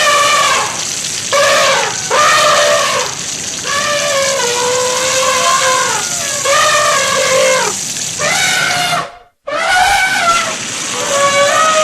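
An animal calling over and over: a series of pitched cries, each up to about a second long and arching up then down in pitch, with a steady hiss behind them. The sound cuts out for a moment about nine seconds in, and the calls go on after.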